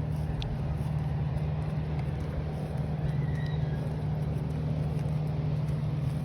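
A steady engine drone with one constant low hum, running unchanged throughout.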